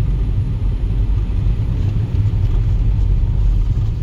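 Steady low rumble of a Volkswagen Jetta driving on a snowy road, engine and tyre noise heard from inside the car.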